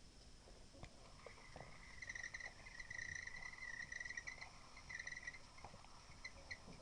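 Faint rapid chirping trill from a small pet bird, a run of about four seconds starting a little over a second in, followed by a few short separate chirps near the end.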